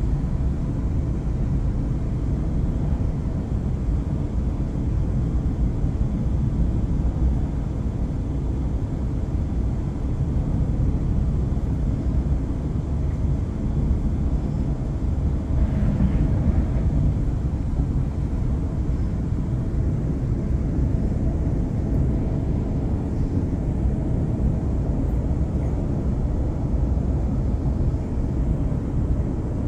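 Steady low rumble of a passenger train running at speed, heard from inside the carriage: wheels on the rails and the carriage's running noise, unbroken throughout.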